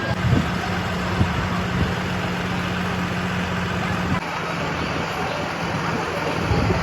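Steady outdoor noise with a low engine hum and a few knocks; the hum drops off about four seconds in.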